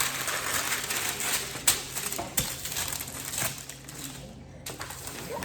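Plastic packaging crinkling and rustling as it is handled, with a few sharp clicks. It dies down for a moment about four seconds in.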